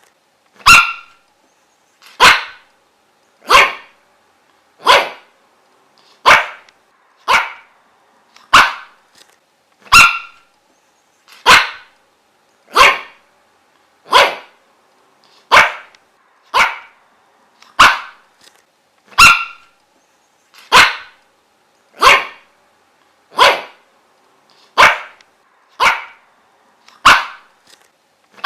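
A dog barking single sharp barks at a steady pace, about one every second and a half.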